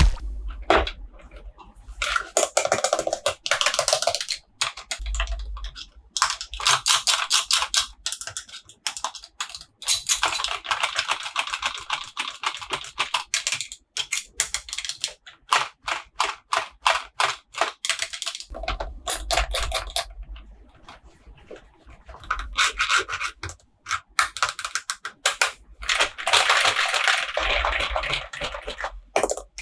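Toy packaging being handled and opened: bouts of rapid crinkling, scratching and rubbing, a few seconds each, with short pauses between them.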